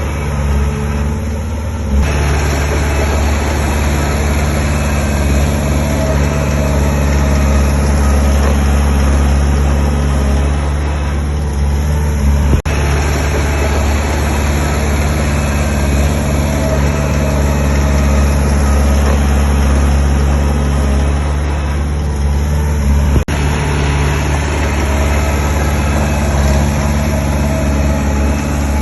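Diesel engine of heavy earthmoving machinery running steadily with a deep hum, its level easing and rising a few times as the load changes, with two very brief dropouts.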